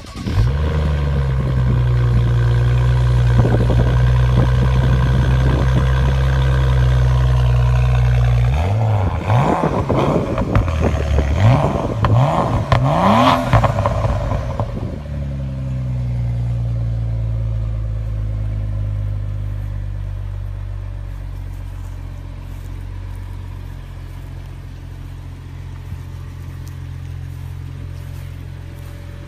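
BMW 535i's turbocharged straight-six through an M Performance exhaust, cold-starting with a bark and holding a high, steady idle. About nine seconds in it is blipped through a series of quick revs for about five seconds, then drops back to an idle that slowly settles lower as the cold-start fast idle eases off.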